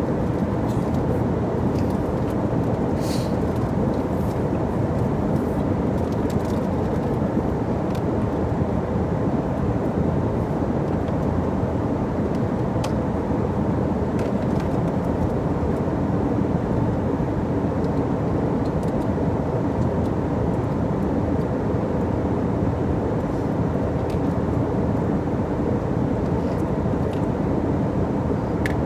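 Steady drone of an airliner cabin in flight, the engine and airflow noise holding even throughout, with a few faint clicks.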